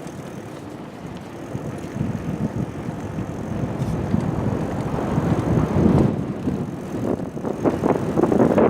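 Wind buffeting the microphone: a steady rumbling noise, without clear tones, that grows louder over the first few seconds.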